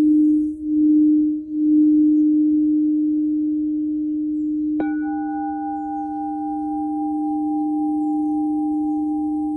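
Crystal singing bowls. A low bowl sounds a steady tone that pulses about once a second at first. About five seconds in, a second, higher bowl is struck and rings on together with it.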